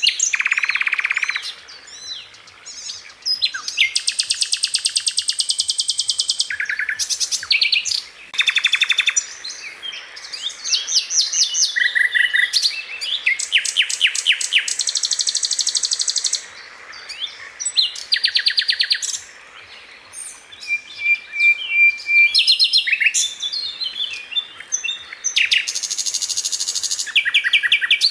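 Sikatan londo flycatcher singing: a string of rapid-fire bursts, each a fast, even trill of high notes lasting a second or two, broken by short pauses, with one short steady whistle a little past the middle.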